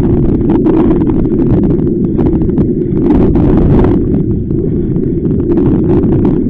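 Strong wind buffeting the microphone: a loud, low rumbling blast broken by irregular crackles as the gusts hit.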